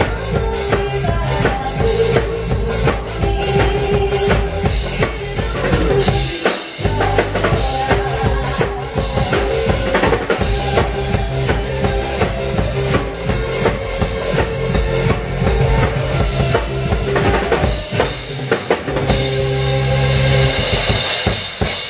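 Music with a busy drum-kit beat, bass drum and snare, over held melody notes. It stops abruptly at the very end.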